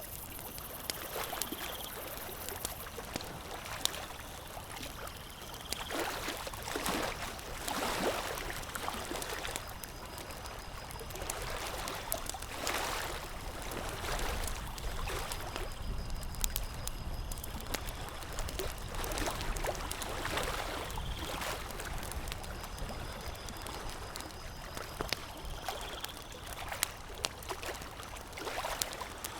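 Campfire crackling with scattered sharp pops, over small waves lapping in irregular washes at a lake shore.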